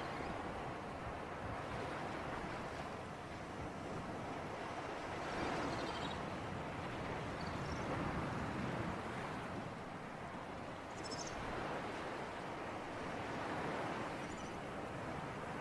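Sea waves washing ashore in a breeze: a steady wash that slowly swells and eases every few seconds, with a few faint high chirps over it.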